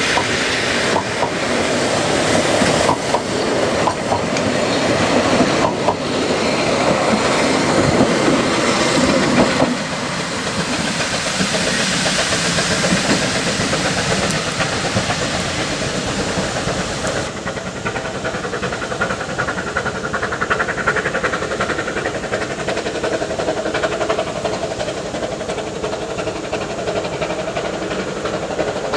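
Narrow-gauge steam train running, its wheels clattering on the rails with steam hissing. The sound drops a step at about ten seconds and again around seventeen seconds.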